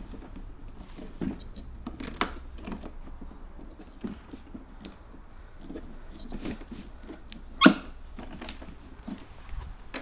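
Plastic parts of a new battery lawn mower being handled and fitted: scattered small knocks, rustles and squeaks, with one sharp, loud click about three quarters of the way through.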